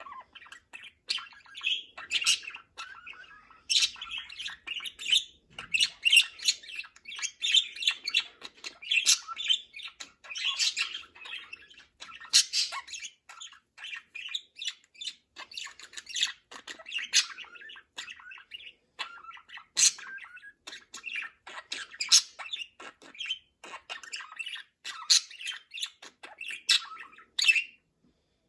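Pet budgerigars chattering and warbling continuously, with frequent short sharp squawks mixed in.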